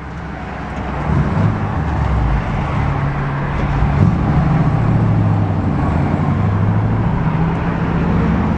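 1964 Chevrolet Impala SS's 327 V8 pulling the car away, heard from outside the open window. The engine grows louder over the first second or so, then runs steadily under load, with wind and road noise.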